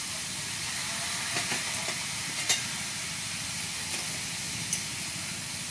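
Chopped gizzards frying in oil in a wok, a steady sizzling hiss, with a few light clicks.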